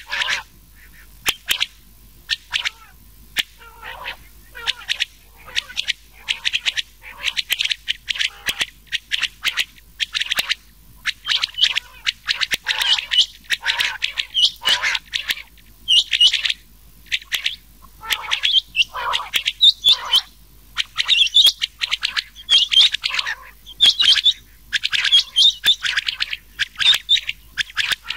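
Rain quail calls mixed with the calls of another quail: short, sharp, high notes repeated in quick runs. They grow denser and louder in the second half.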